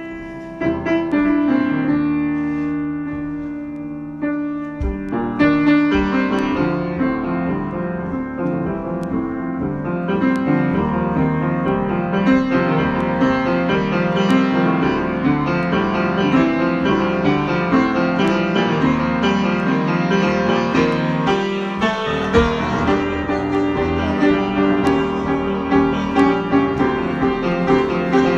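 Solo piano improvisation: held chords give way, about five seconds in, to a busier, flowing run of notes.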